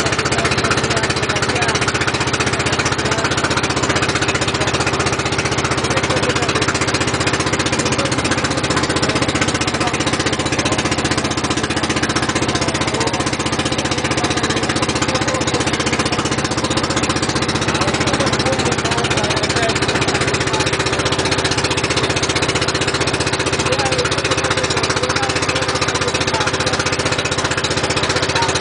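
Boat engine running steadily, a constant loud drone with a steady hum over a rushing noise.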